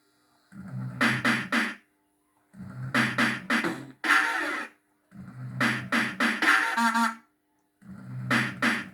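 JPM System 5 fruit machine playing a short sampled sound phrase over and over, four times about every two seconds, with brief gaps between. It sounds a bit rough through a poor speaker connection.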